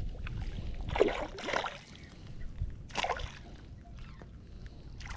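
Short splashes of a small hooked hampala barb thrashing at the water's surface: a double splash about a second in, another about three seconds in and a brief one near the end, over low wind rumble on the microphone.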